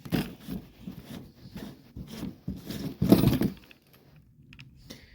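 Irregular handling noises: small clicks, knocks and rattles, with a louder clattering scrape about three seconds in.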